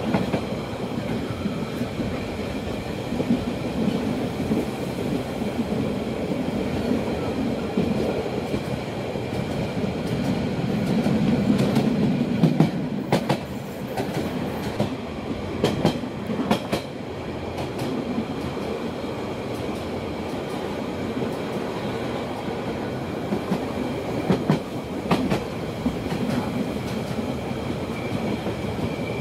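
Rhaetian Railway metre-gauge electric passenger train rolling along the track: a steady rumble of wheels on rail, with sharp clicks now and then and a cluster of them about halfway through.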